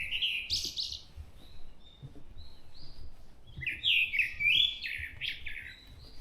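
A thrush singing: a quick run of varied whistled notes that ends about a second in, a few quieter notes, then another rapid, louder phrase in the middle.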